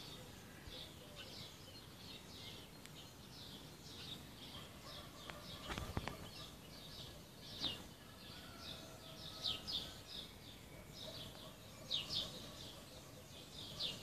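Many birds chirping in a morning chorus: a steady stream of short, high, down-sweeping chirps, with a few louder ones standing out now and then.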